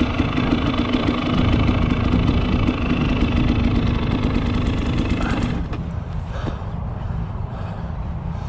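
KTM 300 XC-W TPI's two-stroke single-cylinder engine running at a steady speed, then cut off about five and a half seconds in. After that come a few heavy breaths.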